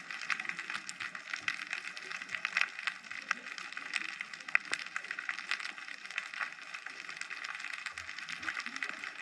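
Underwater ambience of the sea: a steady, dense crackle of many tiny clicks, with a few louder snaps scattered through it.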